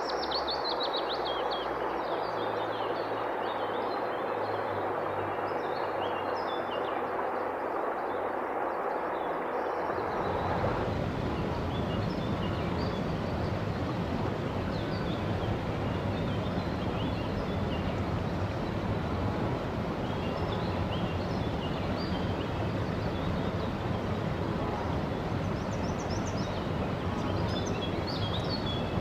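Forest river flowing with a steady rush of water, songbirds chirping over it. About ten seconds in, the water sound changes suddenly and becomes fuller and deeper.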